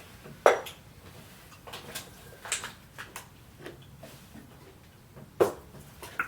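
Kitchen clatter: a series of separate knocks and clinks of utensils against pots and containers, the loudest about half a second in and again near the end.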